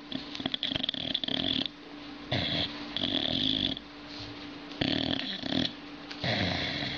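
A sleeping dog snoring with a creepy sound, about four loud snoring breaths in a row, each about a second long.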